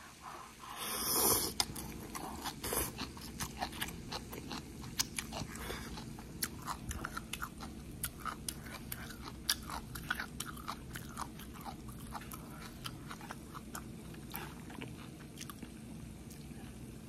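A mouthful of instant noodles slurped in with a brief noisy slurp about a second in, then close-up chewing: a long run of small irregular wet clicks and smacks.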